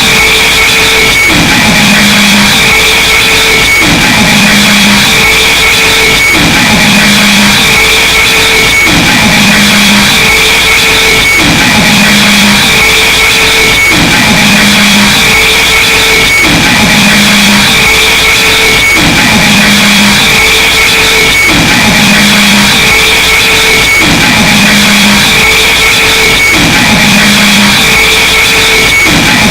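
Harsh noise music: a wall of loud, dense distorted noise over a looped low pattern that repeats about every two seconds, a falling sweep that settles into a held low drone.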